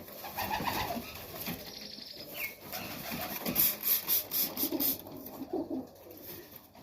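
A hand-held mite spray bottle squirted about six times in quick succession over a pigeon, short hissy spurts a little past halfway, with pigeons cooing around it.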